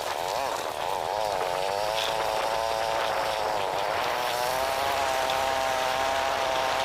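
Two-wheeler engine running on the move, its note rising and falling a little with speed, over a rush of road and wind noise.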